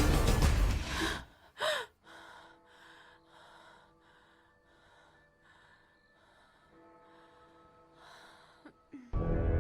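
Loud film score cuts off about a second in. Then comes a long quiet stretch of rapid, regular breathing, like a fighter pilot breathing into an oxygen mask, over a faint held music tone. Loud music comes back just before the end.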